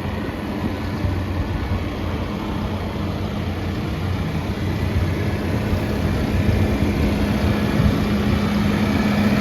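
Case 580N backhoe loader's diesel engine idling steadily.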